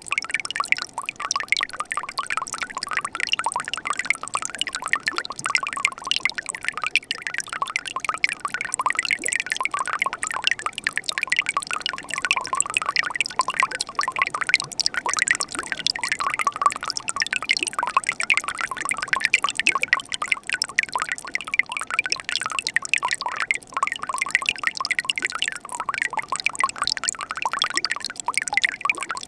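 Mountain stream running steadily, water burbling with many small splashes and drips.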